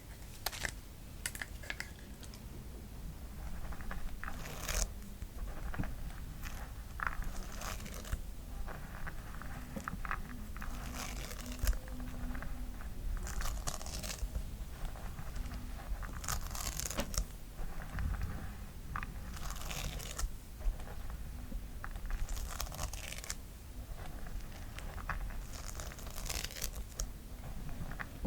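Close-miked tapping and scratching on a pink brush: irregular crisp, scratchy strokes, roughly one every second.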